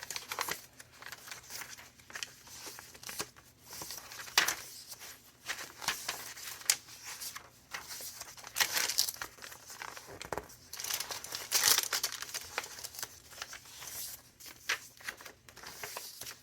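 Paper rustling and crinkling as pages of a thick handmade junk journal are turned and handled, in uneven bursts with a few louder flurries.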